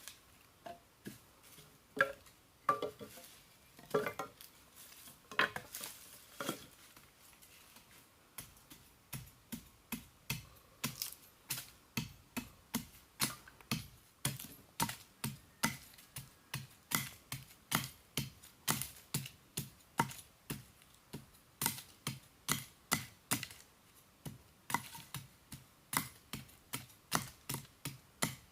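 A few seconds of irregular knocks and clatter, then steady chopping, about three sharp strikes a second.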